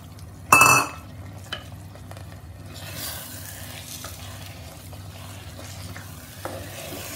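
Raw chicken mince being stirred with a spatula into hot fried masala in a handi, frying with a steady sizzling hiss that sets in about three seconds in. A sharp clatter with a brief ring about half a second in is the loudest sound.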